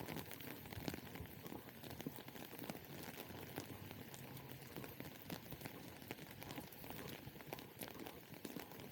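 Rain falling, with many irregular drops ticking close by over a steady hiss.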